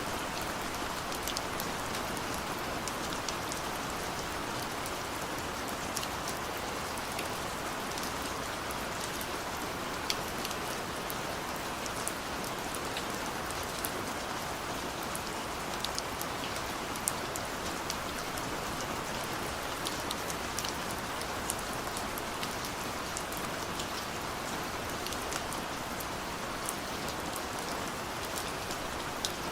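Steady rain falling, a continuous hiss with scattered individual drops ticking sharply on a hard surface.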